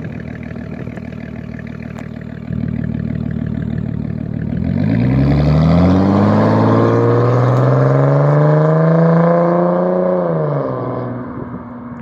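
Straight-piped 3.5-litre V6 of a Dodge Challenger SE: a steady low exhaust rumble, then the engine accelerates hard with the pitch climbing for about five seconds before dropping quickly and fading near the end.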